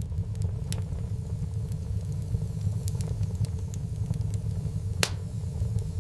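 Wood fire crackling, with scattered sharp pops and one louder pop about five seconds in, over a steady low rumble that sets in abruptly at the start.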